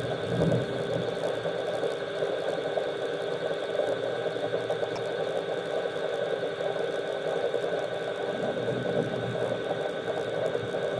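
Steady machine hum with a constant whine, with some uneven low rumbling about a second in and again near the end.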